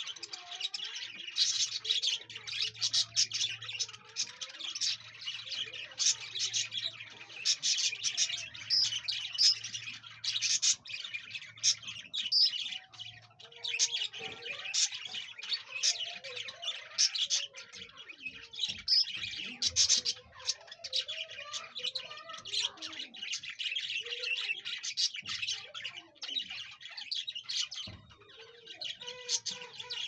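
Birds chirping and twittering without a break, many quick high calls overlapping, with occasional lower squawky notes.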